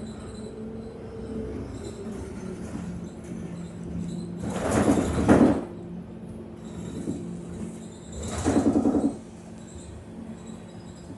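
Interior of a moving city bus: a steady drone with fixed whining tones, and two louder, pulsing rumbles, one about five seconds in and one near the nine-second mark.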